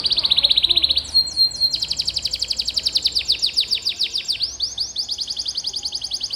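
Domestic canary singing a long series of rapid trills, each note repeated many times a second, switching to a new trill about a second in, again shortly after, and once more past the middle.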